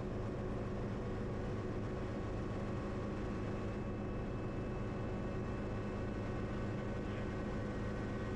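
Schweizer 300C helicopter in flight, its four-cylinder Lycoming piston engine and rotors running steadily, heard from the cockpit as a constant hum of several steady tones over a noisy rush.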